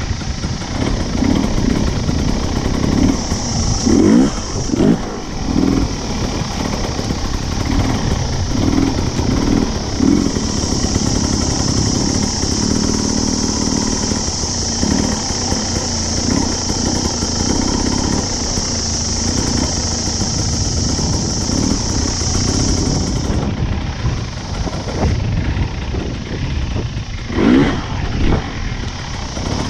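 Dirt bike engine running under way on a trail ride, revving up and down over and over, with sharper revs about four seconds in and again near the end. A steady high-pitched drone sits over the engine through the middle stretch.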